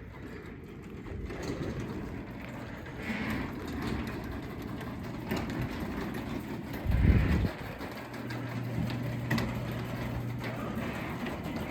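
Craftsman 3/4 hp DC belt-drive garage door opener running, raising the garage door, with a loud low thump about seven seconds in.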